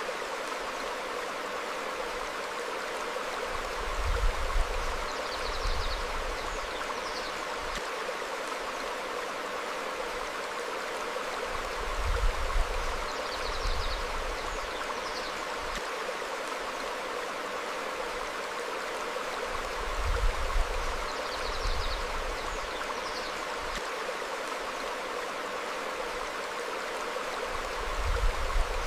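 Stream flowing over rocks, a steady rushing babble. Short low rumbles come about every eight seconds, and faint high bird chirps are heard a few times.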